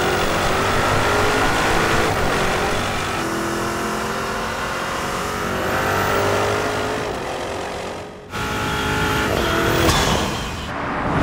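Porsche Cayenne Turbo GT's twin-turbo V8 accelerating, its exhaust note climbing through the revs across several edited driving shots. Near the end the car passes close by, the sound swelling and falling away.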